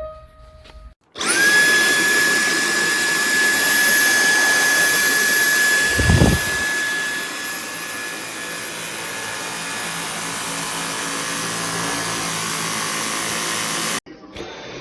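Dyson V8 cordless stick vacuum's motor switching on about a second in and quickly spinning up to a steady high whine, with a low thud about six seconds in. It runs on and cuts off suddenly near the end.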